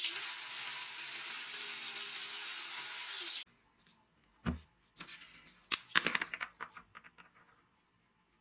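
A small high-speed power tool running with a high whine that dips and recovers right at the start, then winds down and stops about three and a half seconds in. A dull thump and a cluster of clicks and knocks follow as things are handled.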